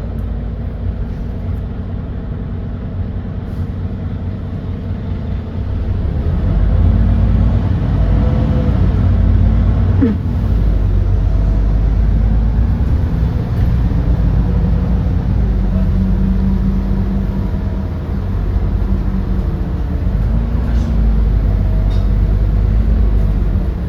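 Edison Motors Smart 110G city bus's GX12P natural-gas engine under way. It gets louder about six seconds in as the bus accelerates, and its pitch rises and drops back a few times as the ZF automatic changes gear.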